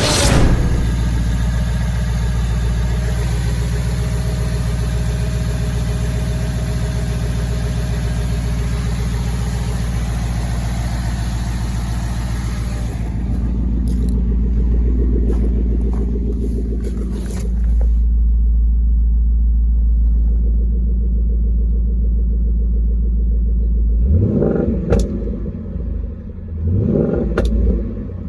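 Ford 5.0 Coyote V8 in a first-generation Mustang idling steadily, with a deep low rumble, then revved twice near the end, the pitch rising and falling each time.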